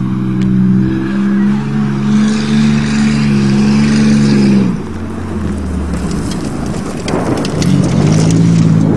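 A Ford pickup's 5.4 V8 and a 1994 Buick's 3.8 V6 racing flat out across a dirt field. The engine note holds at steady high revs and eases off about five seconds in. Near the end a car slides past close by, its engine rising with a rush of tyres throwing dirt.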